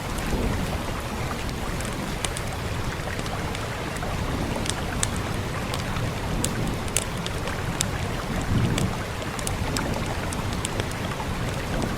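Steady hiss of rain, with the irregular sharp pops and snaps of a crackling wood fire scattered through it. Low rumbles swell up briefly about half a second in and again about eight and a half seconds in.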